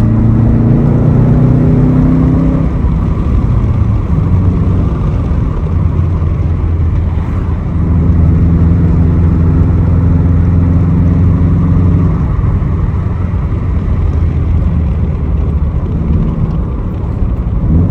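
2006 Subaru STI's turbocharged flat-four running through a Tomei aftermarket exhaust on the move. The revs climb over the first couple of seconds, ease off, then hold a strong steady pull from about eight seconds in before dropping back after about twelve seconds.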